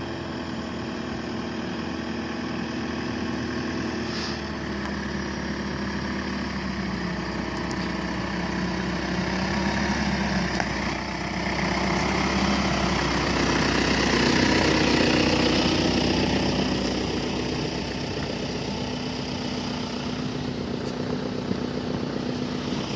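An engine running steadily, growing louder about halfway through and then easing back.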